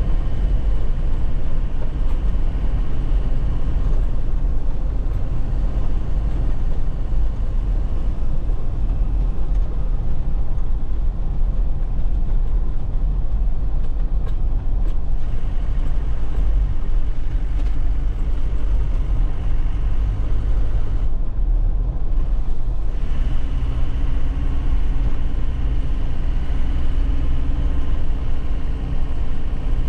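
2001 Nissan Cabstar 106Le light truck's diesel engine running under way, with heavy low rumble from the rough road. About 21 seconds in the higher noise drops away for a couple of seconds, and the engine note then settles at a new pitch.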